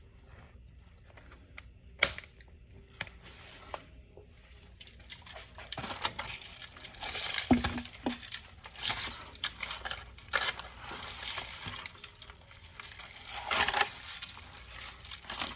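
Kitchen handling sounds while a raw whole chicken is seasoned and stuffed by hand: a sharp click about two seconds in, then from about six seconds on irregular rustling, crinkling and soft knocks.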